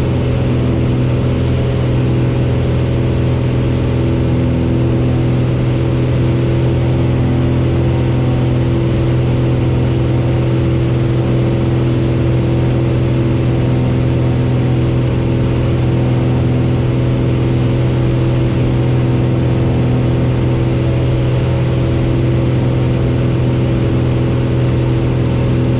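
Cessna 172's piston engine and propeller running at a steady, unchanging pitch: the constant drone of the light aircraft under power.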